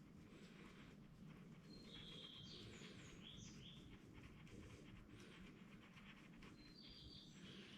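Near silence with a low background hum, and faint bird chirps a few times in the distance.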